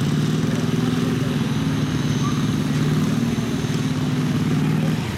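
Engine of a pulling vehicle running at a steady, held speed, then dropping away about five seconds in.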